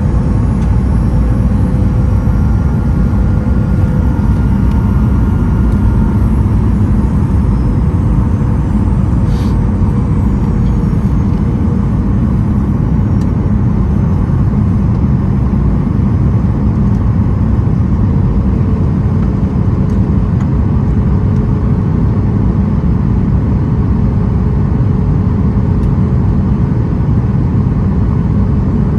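Steady roar of a Boeing 737-900ER's CFM56-7B jet engines and airflow heard inside the passenger cabin in flight, with faint steady engine tones that shift slightly in pitch about two-thirds of the way through.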